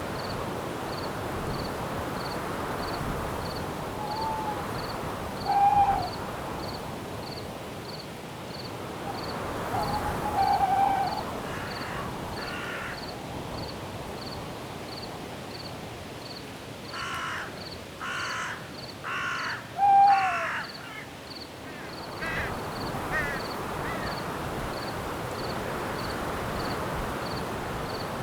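Night forest ambience: a steady wind hiss with crickets chirping in a regular pulse, over which birds give scattered calls. Short clear notes come now and then, and a little past the middle a run of four harsh, rasping calls.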